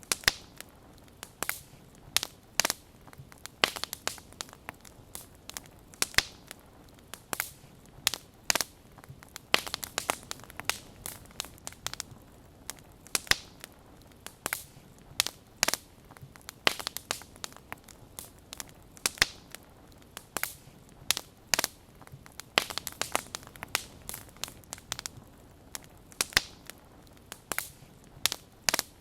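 Wood fire crackling, with sharp, irregular pops and snaps several times a second over a faint hiss.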